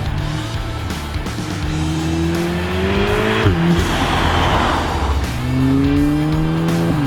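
Volkswagen Golf R's turbocharged four-cylinder engine, breathing through a full Milltek stainless steel exhaust, accelerating hard. The pitch climbs steadily and drops sharply at an upshift about halfway through, then climbs and drops again at another upshift near the end.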